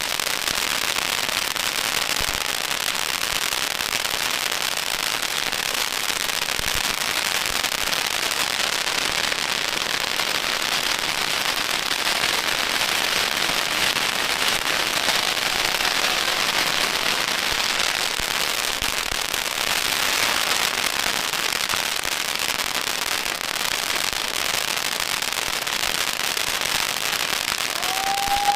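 Strings of firecrackers going off in a dense, unbroken crackle of rapid pops.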